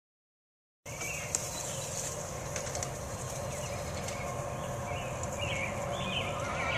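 Birds chirping outdoors, short calls repeated every second or so, over a steady low rumble; the sound cuts in about a second in after silence.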